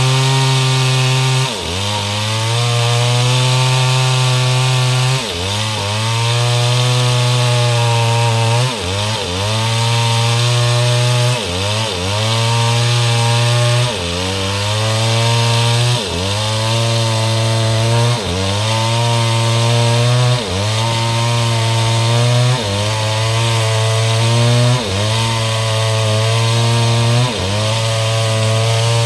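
STIHL MS 382 two-stroke chainsaw with a 30-inch bar, running at full throttle as it rip-cuts mahogany. Its note drops and recovers briefly about every two seconds.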